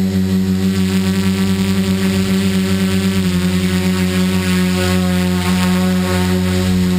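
Electric motors and propellers of a radio-controlled tricopter buzzing steadily in flight, the pitch dropping slightly about three seconds in as the throttle eases.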